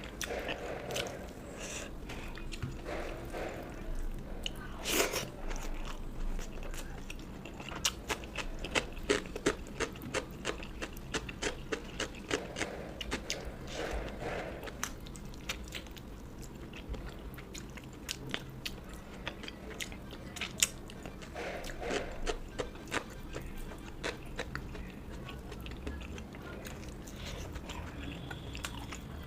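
A person chewing and biting food close to the microphone, eating a meal of rice and fish curry. There is a steady run of short wet clicks and smacks, thickest about a third of the way in.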